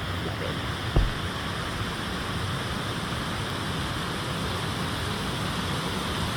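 Steady rush of flash-flood water flowing across a road, with a brief low thump about a second in.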